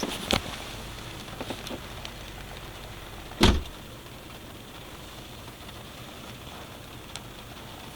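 Steady hiss of rain falling, with a few light clicks near the start and one loud thump about three and a half seconds in.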